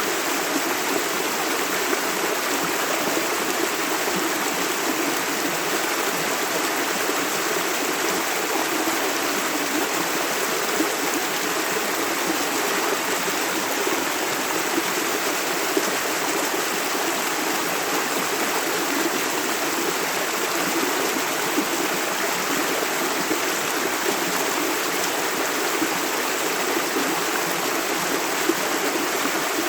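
A clear river flowing steadily over stones, with an even rush of water and small splashes and gurgles throughout.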